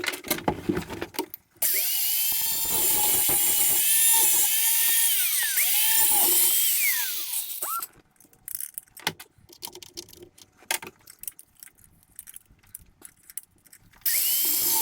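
Handheld power tool grinding down a spot on a metal canopy track. It runs for about six seconds, its pitch dipping and recovering as it bites, then light clicks and scrapes, then a second short run near the end that winds down.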